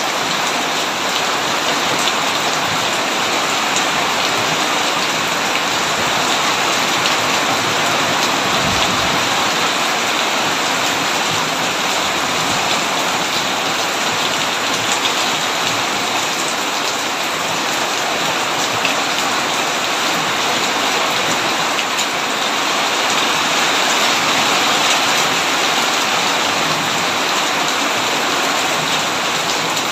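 Heavy rain falling steadily on a tin roof, a dense even hiss with individual drop ticks scattered through it.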